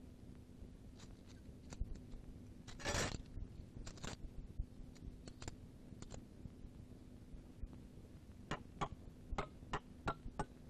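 Faint scrapes and clicks over a low steady hum, with a brief louder rasp about three seconds in. From about eight and a half seconds a run of sharp ticks sets in at roughly two to three a second.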